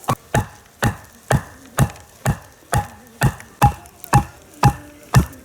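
Axe chopping wood: quick, even strokes about two a second, a few of them with a short ringing note.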